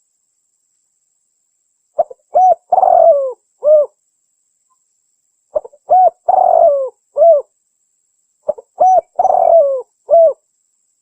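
Spotted dove cooing: three phrases a few seconds apart. Each is a few short coos and a longer drawn-out coo that falls in pitch, with dead silence between phrases. It is a looped hunting lure recording, labelled a female calling to males.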